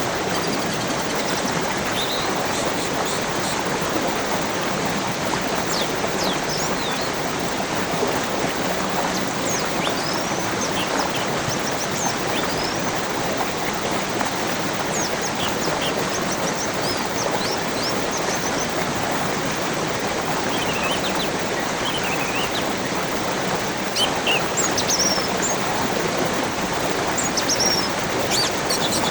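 Steady rushing of a stream or small waterfall, with small birds chirping over it in short, scattered calls that become more frequent near the end.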